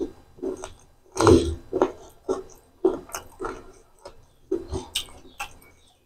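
Close-miked chewing of rice and chicken liver curry: wet mouth smacks and clicks, about two a second.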